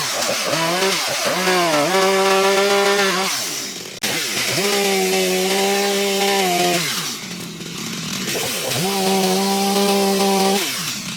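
A power tool's motor revved in four stretches of one to two seconds at a steady high speed. Its pitch glides down between the stretches and comes back up, over a steady hiss.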